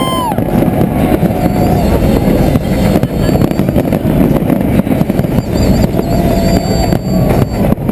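Dense, continuous rumble of a large fireworks barrage, with many bursts running together.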